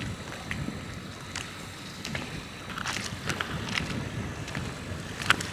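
Sea waves washing gently with wind buffeting the microphone, and a scatter of small clicks and taps, the sharpest near the end.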